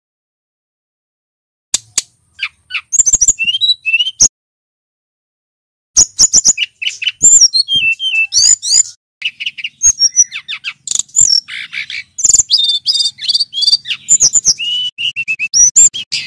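Male brown-chested jungle flycatcher singing a fast, varied run of high whistled notes, sweeps and chirps. It starts about two seconds in, pauses briefly, then runs on unbroken from about six seconds in.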